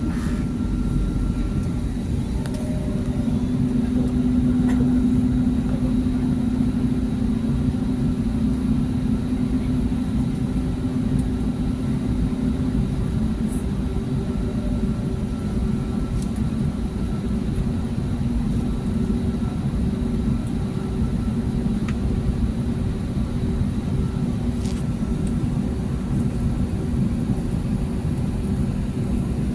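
Airbus A320neo heard from inside the cabin: a steady engine hum over low rumble as the aircraft taxis, with the hum a little stronger for several seconds near the start.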